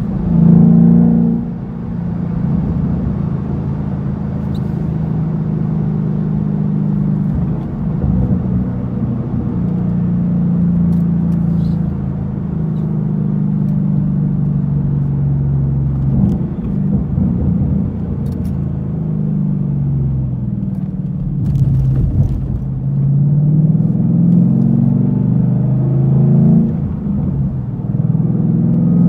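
2014 Mustang GT's 5.0 Coyote V8 running through a stainless Roush axle-back exhaust. The engine note holds steady for stretches and rises and falls several times as the revs change, with a loud rev about a second in.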